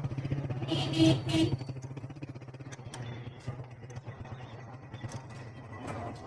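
Motorcycle engine idling steadily, with a brief hiss about a second in, then running slightly quieter.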